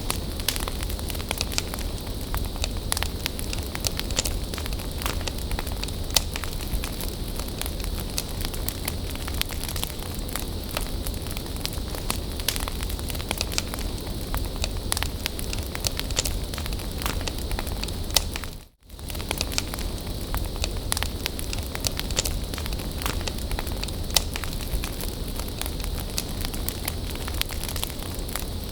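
Wood fire crackling steadily, with many sharp pops and snaps over a continuous hiss. The sound drops out for an instant about two-thirds of the way through.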